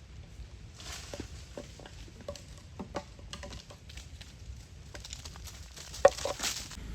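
A patter of scattered taps, clicks and rustles as monkeys of a troop move about, with the loudest sharp sound about six seconds in.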